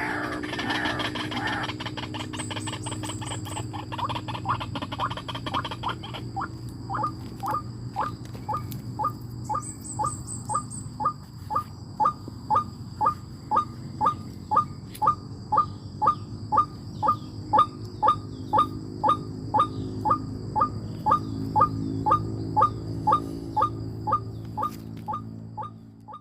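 A bird calling over and over. For about the first six seconds it gives a dense, fast chirping; then it settles into short, falling chirps about twice a second that grow louder, over a steady low hum.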